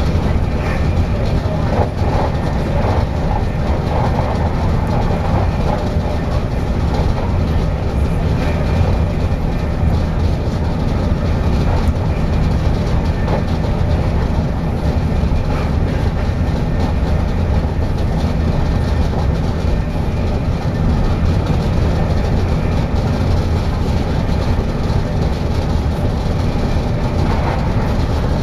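Passenger train running at speed, heard from inside the carriage by the doors: a steady low rumble of wheels on the rails and the running gear.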